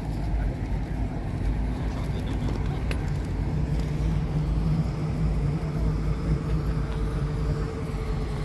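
A car engine running steadily with a low rumble; a steady hum joins it about halfway through.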